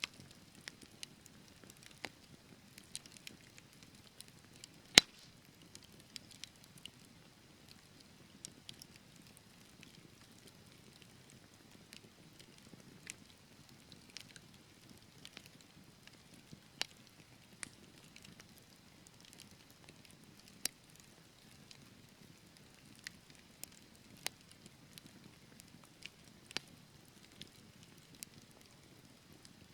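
Wood fire burning in a fireplace: a low steady hiss of flames with irregular crackles and pops from the burning logs, one sharp pop about five seconds in the loudest.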